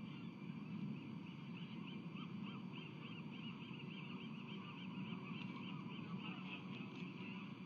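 Osprey calling a fast series of short, high chirping whistles, about four a second, over a steady low rumble of wind and background noise.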